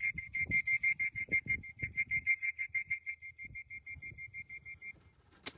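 A rapid trill of short whistle-like notes on one steady high pitch, about eight a second, weakening after about three seconds and stopping near the end, with low knocks underneath. A single sharp click follows just before the end.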